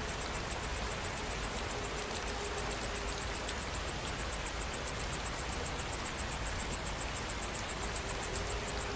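Steady rain falling, an even hiss, with an insect chirping high and fast in an unbroken rhythm of about seven pulses a second.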